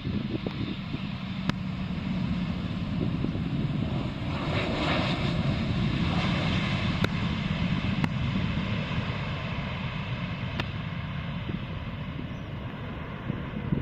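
Airliner on landing approach passing by, its engine noise building to a peak about halfway and then slowly fading.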